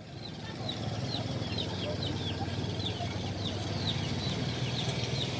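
Small birds chirping: many short, high peeps, each falling in pitch, about two or three a second, over a steady low hum.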